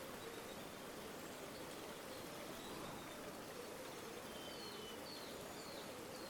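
River water flowing steadily, with a few faint, short bird chirps in the second half.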